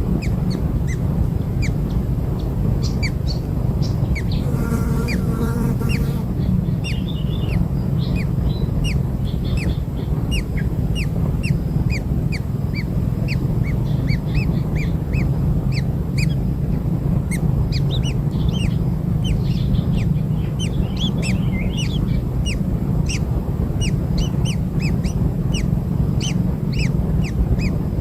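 Baby kingfishers chirping: many short, high, falling chirps, several a second, over a steady low rumble. A brief nasal, honk-like call comes about five seconds in.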